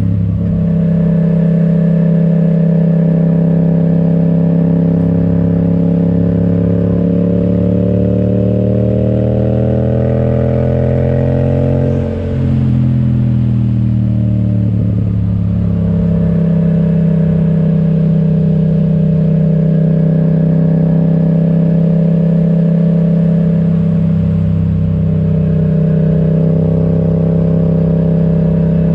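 Yamaha XSR700's 689 cc parallel-twin engine running through an Akrapovic exhaust while the bike cruises. The engine note holds steady, rises in pitch for several seconds, dips briefly about twelve seconds in, then falls back and settles into a steady cruise for the rest.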